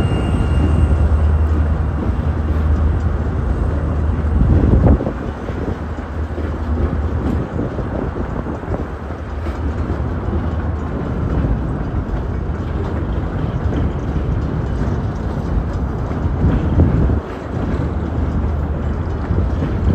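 Freight train passing: a steady low rumble, with the noise of the train rolling along the track.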